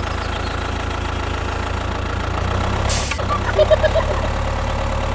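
Small engine of a homemade mini tractor running steadily at a low, even pulse, with a brief hiss about three seconds in.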